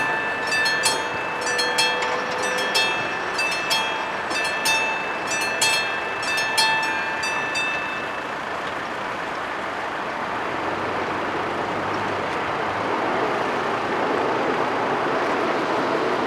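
Level crossing's electric warning bell ringing with about one strike a second, stopping about eight seconds in. A steady noise follows and grows louder toward the end.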